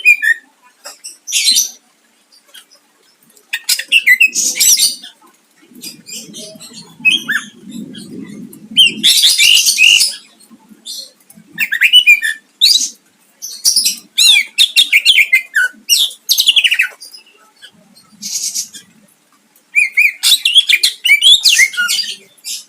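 Cucak ijo (green leafbird) singing: loud bursts of rapid, high, sweeping notes, each about a second long, with short pauses between them.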